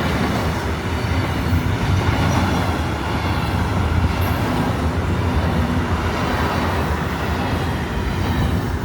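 A freight train rolling past close by: a steady, loud rumble of wheels on rail.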